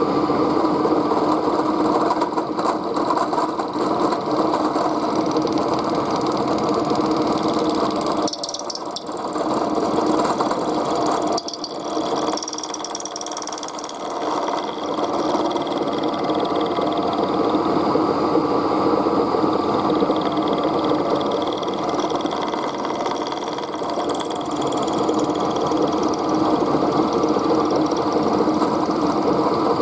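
Small machine tool running steadily while cutting a cold rolled steel bar, with brief drops in level about a third of the way in.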